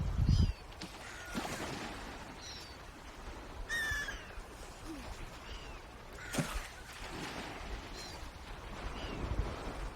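Birds calling: a scattered series of short, high calls that bend in pitch, about eight in all, the strongest about four seconds in, over a constant outdoor background hiss. A brief loud low rumble comes at the very start.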